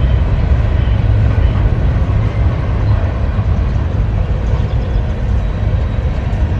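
A freight train's cars rolling past on the rails, a loud steady low noise with no horn or distinct bangs.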